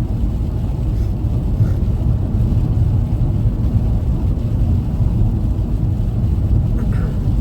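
Steady low rumble of a front-wheel-drive car's tyres and engine at highway speed, heard inside the cabin.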